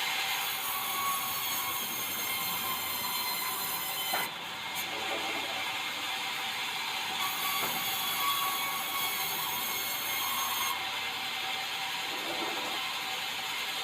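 Swing-blade sawmill's circular saw running through white meranti timber, a steady high-pitched sawing noise with a brief knock about four seconds in.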